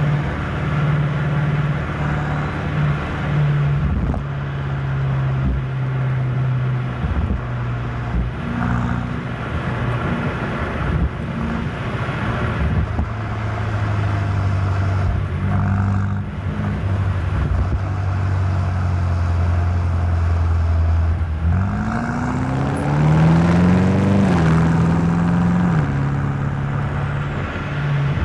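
BMW M8 Competition's 4.4-litre twin-turbo V8 running at steady low revs while driving. About three quarters of the way in, the engine note rises smoothly as the car accelerates, holds for a couple of seconds, then drops back near the end.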